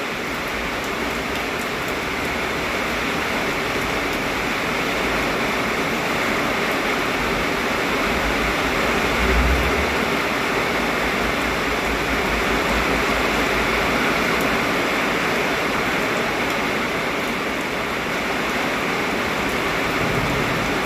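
Heavy rain pouring steadily, a dense even hiss of falling water, in strong wind. A brief low rumble swells about nine seconds in.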